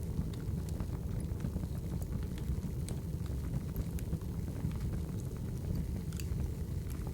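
Crackling wood fire: a steady low rumble of burning firewood with scattered sharp pops and crackles.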